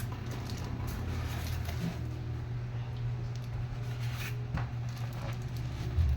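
Light clicks and rustles from handling a paper crinkle machine and its packaging, over a steady low hum, with a short knock near the end.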